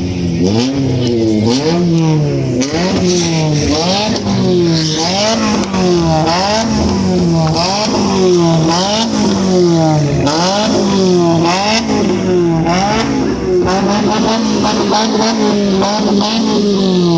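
Car engine revved hard over and over, its pitch climbing and dropping about once a second, then held high and steady for the last few seconds.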